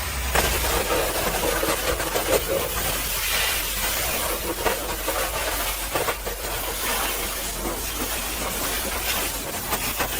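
High-pressure washer spray hissing steadily against a truck's dirty bodywork, with irregular spatters and a low hum underneath.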